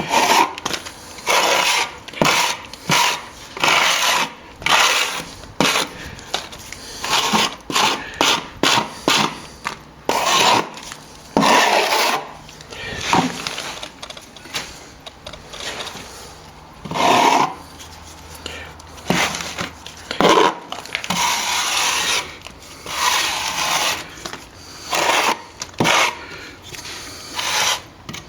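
A hand tool scraping back a nearly set mix of sand and stopping plaster filled into a wall crack, in repeated irregular rasping strokes.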